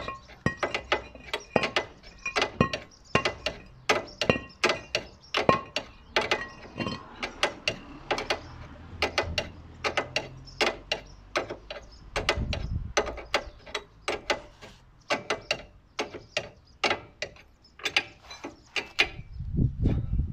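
Hand ratchet wrench clicking in repeated strokes as a bolt or bearing puller screw is turned, a few clicks a second at an uneven pace.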